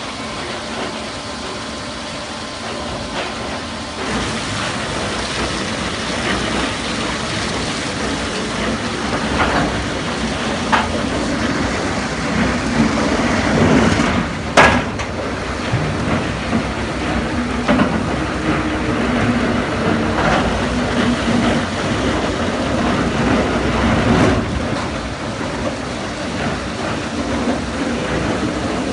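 Mobile Cambio-type ring debarker running on a test feed of single logs: steady, loud machine noise from the feed and debarking rotor, with scattered knocks and one sharp crack about halfway through.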